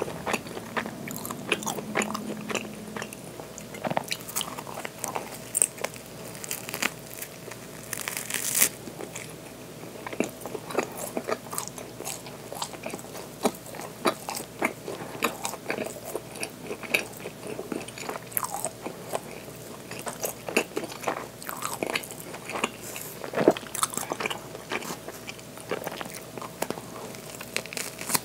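Close-miked biting and chewing of bakery bread: a steady run of short mouth clicks and soft crunches, with a sharper, louder crunch about eight seconds in.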